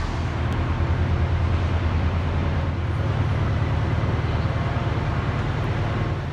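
Steady low rumble of a vehicle in motion, with a pulsing throb underneath.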